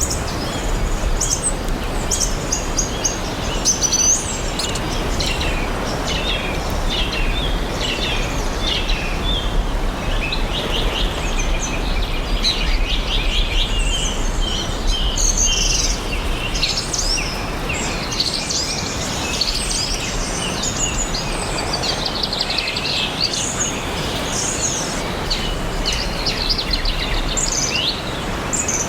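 Several birds chirping and singing in a forest, with quick trills and short note series overlapping throughout, over a steady low background hiss and rumble.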